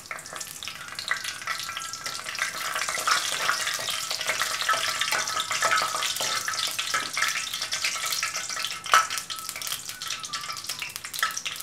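Fresh curry leaves sizzling and crackling in hot oil in an aluminium kadai as they are stirred with a spoon. This is the tempering stage, where the leaves splutter in the oil. A single sharp click comes about nine seconds in.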